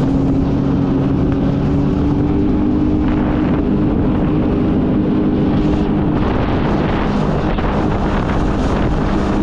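Jet ski engine running steadily at speed, with wind buffeting the microphone.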